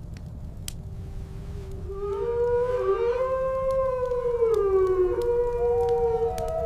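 A wolf howling: one long call that rises and then falls, with a second, higher howl starting near the end, over a steady low rumble.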